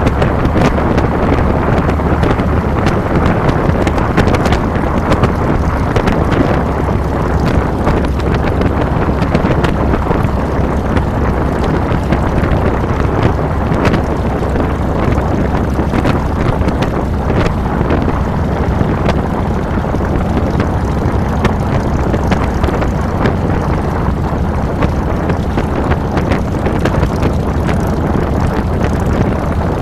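2007 Harley-Davidson Fat Boy's V-twin engine running steadily while riding, with wind buffeting the handlebar-mounted microphone.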